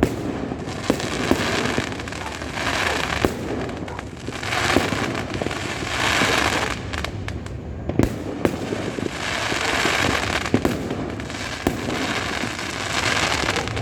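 Many fireworks and firecrackers going off at once: a continuous din of bangs and crackling, with sharp cracks scattered throughout and swells of crackle every couple of seconds.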